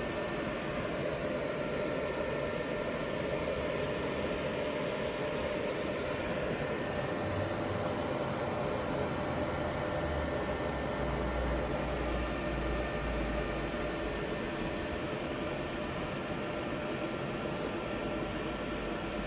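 Allen-Bradley PowerFlex 525 inverter running on test: a steady high-pitched whine, typical of a variable-frequency drive's switching, over a steady hum of running machinery. The whine cuts off suddenly near the end while the hum carries on.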